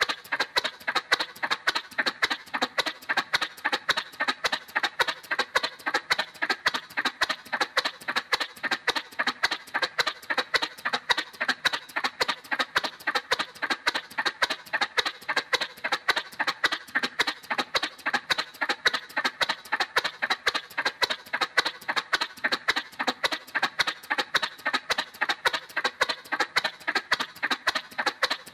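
Cartoon-style motorcycle sound effect: a thin, evenly repeating putter of about three pulses a second that never changes pace.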